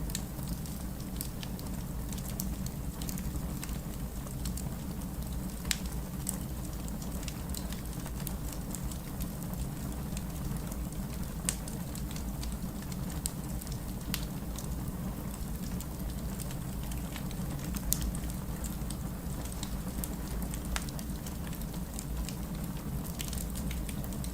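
Campfire burning with a steady low rush and scattered crackles and sharp pops, a few louder pops about six, eleven and eighteen seconds in.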